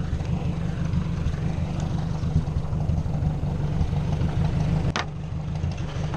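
Ford 600 tractor's four-cylinder engine running steadily at low speed. There is a single sharp knock about five seconds in.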